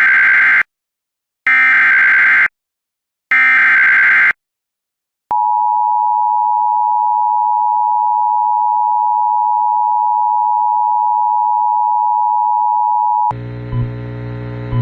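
Start of an Emergency Alert System message: three one-second bursts of SAME header data, then the steady two-tone EAS attention signal held for about eight seconds. Near the end the tone stops and an electronic tune with a low hum under it begins.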